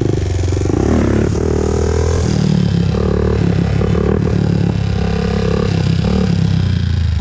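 Honda TRX400EX ATV's single-cylinder four-stroke engine running under throttle while being ridden, its note shifting with throttle about a second in, then running steadily.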